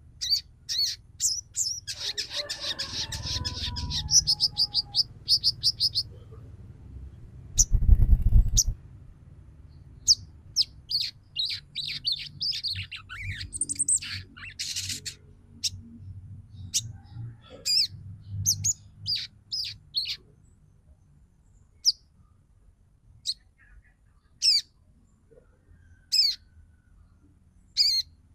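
Female sogon bird chattering in short, high chirps: a fast run of them for the first six seconds, then single chirps and short bursts at irregular gaps. A brief low thump comes about eight seconds in.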